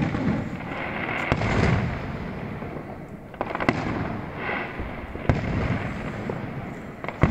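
Aerial firework shells bursting: about six sharp bangs a second or two apart, with a dense crackle after several of them.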